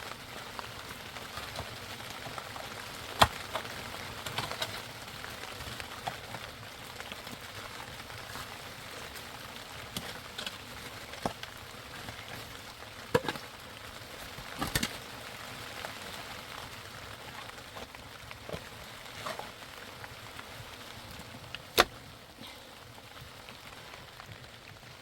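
Steady hard rain falling, an even hiss with scattered sharp knocks, the loudest about three seconds in and another near the end.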